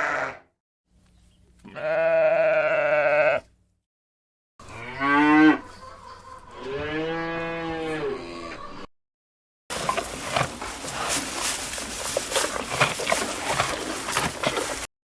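Farm animals calling in separate short clips: a long, steady bleating call, then two calls that rise and fall in pitch. These are followed by about five seconds of a dense, scratchy noise.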